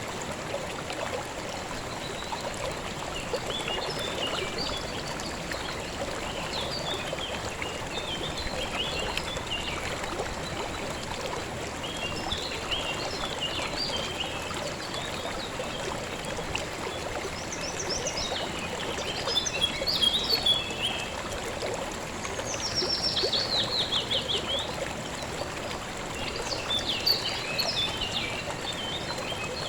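River water flowing steadily, with birds singing and chirping over it throughout, among them a rapid, falling trill about three-quarters of the way through.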